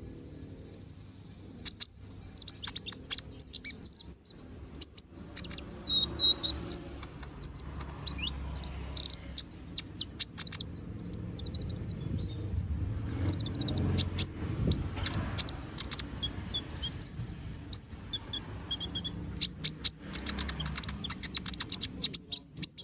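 Brown-throated sunbird (kolibri ninja) singing hard: fast bursts of high, thin chirps and trills in phrases with short gaps, a bird in full song running through its repertoire. A faint steady low hum lies underneath.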